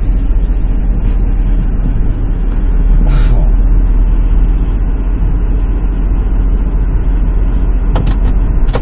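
Semi truck's diesel engine idling with a steady low rumble, with a short hiss about three seconds in and a couple of sharp clicks near the end.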